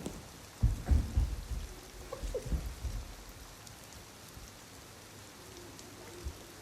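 Steady rain, with low rumbling bursts of thunder in the first half that then die away to the rain alone.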